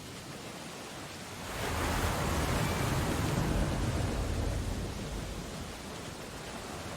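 Steady storm ambience of rain with ocean surf; about a second and a half in, a wave surges up, then washes back down over the next few seconds.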